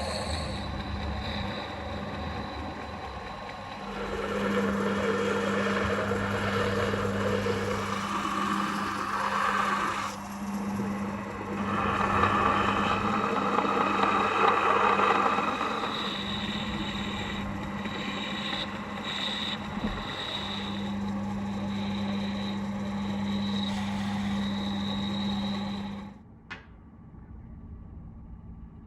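An electric power tool's motor runs with a steady hum under a hiss that rises and falls as it works. It is switched off about 26 seconds in, with a click.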